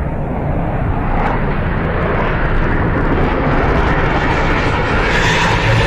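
Jet aircraft engine noise, a steady rushing sound that turns brighter and more hissing about four and a half seconds in.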